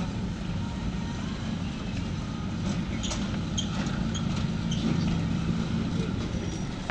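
A heavy engine running steadily with a low, even hum, a few faint short high-pitched sounds over it in the middle.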